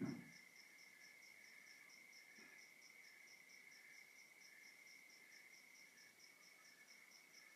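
Crickets calling at night: one steady high trill and another rapid pulsed chirping at about five pulses a second, both faint. A brief low thump at the very start, and a fainter one about two and a half seconds in.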